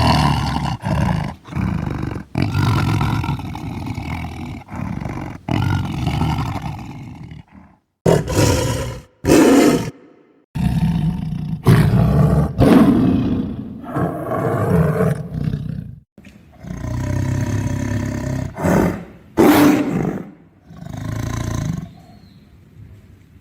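Tiger roaring, a string of loud separate roars, some long and drawn out, others short and sharp, broken by abrupt cuts to silence, with a quieter stretch near the end.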